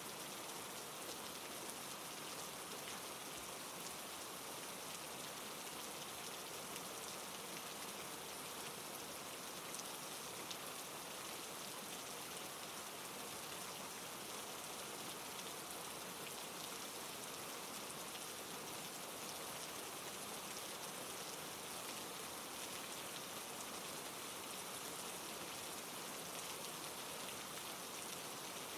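Steady, even rain falling, with fine scattered drop ticks over a constant hiss.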